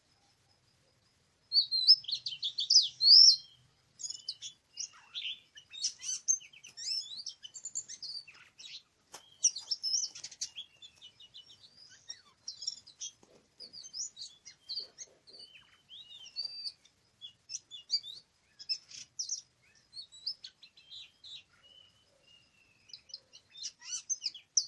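Oriental magpie-robin singing: a varied run of quick whistles and chirps that starts about a second and a half in, loudest in its first couple of seconds.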